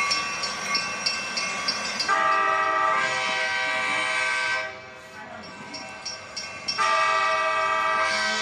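Toy train sound effects through a small speaker: a quick, rhythmic ticking sound, then two long train-horn blasts, the first starting about two seconds in and the second near seven seconds in.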